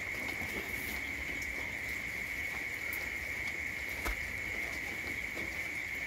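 Outdoor rural ambience with a steady high-pitched drone, and one sharp click about four seconds in.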